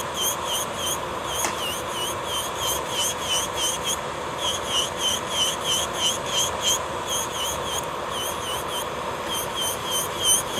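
Electric nail drill (e-file) running with a steady whine, its pitch dipping briefly and recovering about three times a second as the bit is stroked over the nail, grinding down a thick gel layer.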